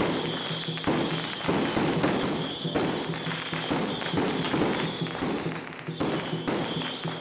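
Music with held tones over a dense, continuous crackle of firecrackers.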